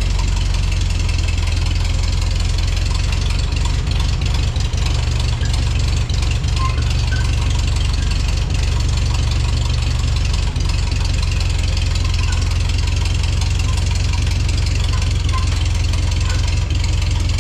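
Old farm tractor's gasoline engine idling steadily, purring evenly after a fresh start.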